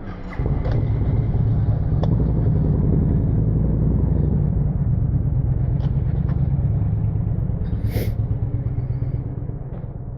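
Motor vehicle engine running with a loud, steady low rumble that comes in suddenly just after the start and eases off near the end, with a brief sharp noise about 8 seconds in.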